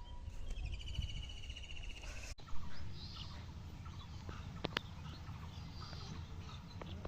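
Wild birds singing: a fast trill of rapidly repeated notes for about two seconds, then scattered short chirps, over a steady low outdoor rumble.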